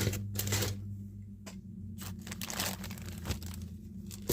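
Plastic bags of model-kit parts crinkling and rustling as they are handled, in several short bursts, over a steady low hum.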